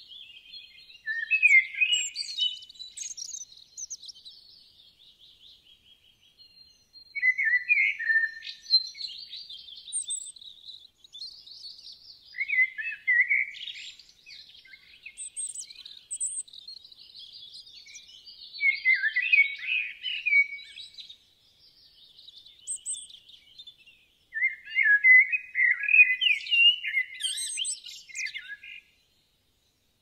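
A songbird singing in bursts of varied, high chirping and warbling phrases every few seconds, with short pauses between them.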